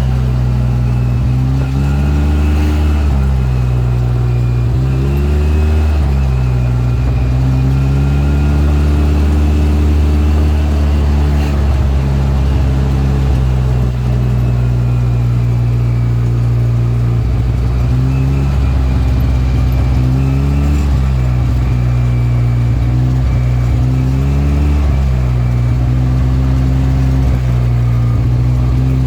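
A vehicle engine running steadily over a low road drone. Its pitch climbs and drops back several times, as with gear changes while driving.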